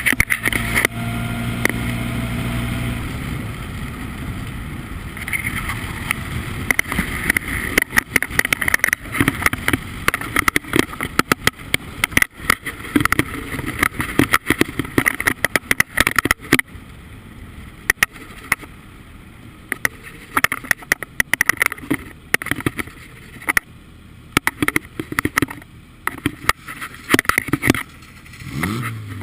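Formula Ford race car's engine running, heard through heavy crackling wind buffeting on the onboard microphone; near the end the engine note falls and settles to a lower steady tone.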